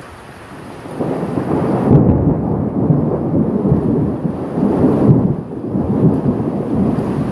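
Thunder from a lightning storm: a deep rolling rumble breaks in about a second in, over steady rain, and rumbles on in waves.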